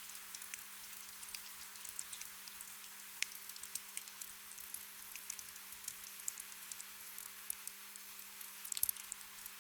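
Gentle rain: a steady soft hiss with many small drops pattering irregularly, a quick flurry of them near the end, over a faint steady low hum.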